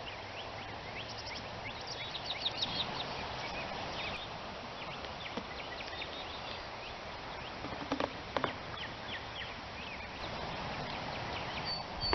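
Birds chirping outdoors: many short, high, downward chirps in scattered clusters over a faint steady background, with a louder call about eight seconds in.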